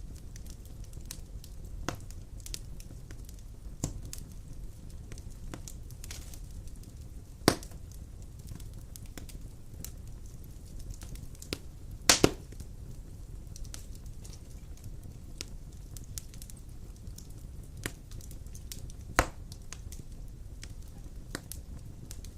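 Wood fire burning in a stone fireplace: a steady low rumble of flames with scattered crackles, and sharp pops about a third of the way in, a double pop about halfway, and another near the end.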